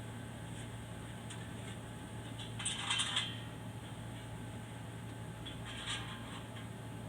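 Light metallic clinks of small hard parts being handled: a quick cluster about three seconds in and another near six seconds, over a steady low hum.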